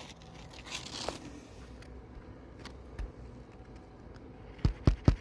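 Asphalt shingle rustling and tearing about a second in, then three quick sharp strikes near the end as shingles are nailed down.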